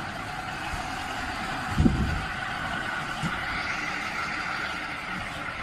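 A vehicle running steadily, with a low thump about two seconds in.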